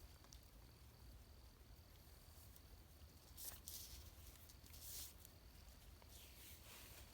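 Near silence, with three faint, brief rustles spread through the second half.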